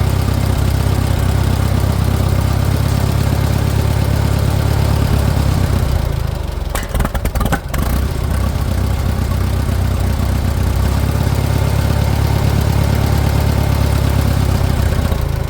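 Farmall 400 tractor's four-cylinder gasoline engine idling steadily, the engine briefly breaking up about six to eight seconds in. It will run only on choke, which the owner takes for an air leak at the intake manifold or its gasket.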